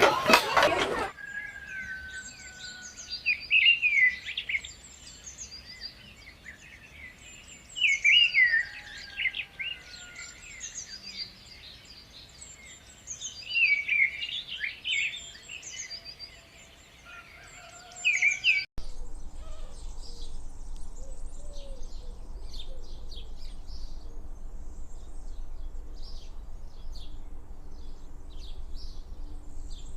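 Birds calling in loud bursts of high, rapid chirps about every five seconds. About two-thirds of the way through, the sound cuts to a steady low hum with fainter chirping.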